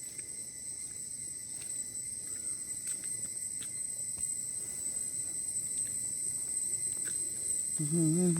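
Insects, crickets or cicadas, chirring in one steady high-pitched drone, with a few faint clicks.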